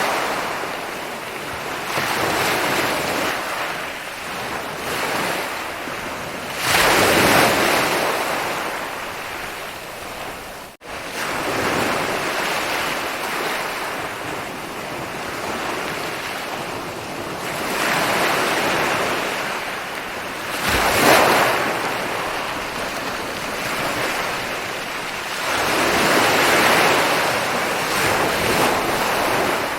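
Ocean waves breaking and rolling onto a shore, the surf swelling and easing every few seconds. The sound drops out suddenly for an instant about eleven seconds in.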